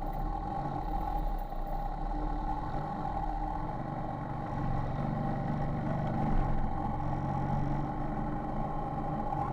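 Motor vehicle engine running steadily amid road traffic noise, with a constant low rumble.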